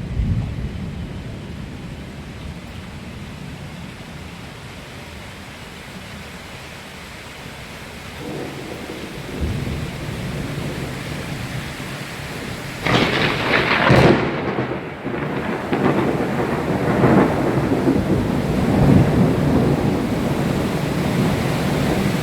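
Thunderstorm with steady rain: thunder rumbles low, builds from about eight seconds in, and breaks into a sharp, loud crack about thirteen seconds in that rolls on as a long rumble.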